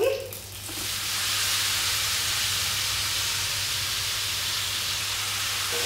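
Marinated baby potatoes tipped into hot mustard oil in a pan, sizzling: a steady hiss that comes in under a second in as the wet marinade hits the oil.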